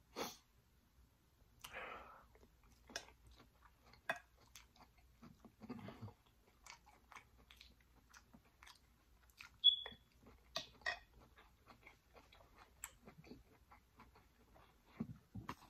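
Close-miked mouth sounds of a person chewing sautéed broccoli and carrots: scattered wet clicks and smacks at an uneven pace, with a short high squeak about ten seconds in.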